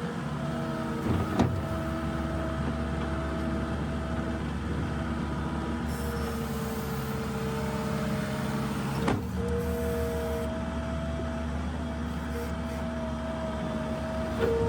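New Holland LS170 skid steer's diesel engine running steadily under load, with whining tones that come and go, and two sharp knocks, one about a second and a half in and one about nine seconds in.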